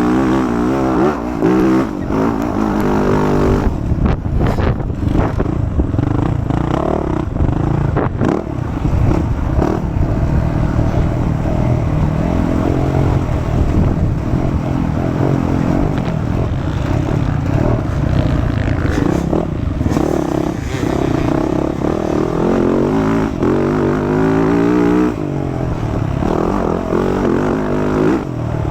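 Motocross dirt bike engine revving hard, its pitch climbing and dropping as the throttle opens and closes, mixed with sharp knocks and rattles.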